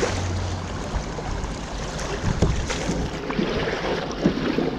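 Kayak being paddled through the creek: water splashing and rushing around the hull and paddle, with a few knocks.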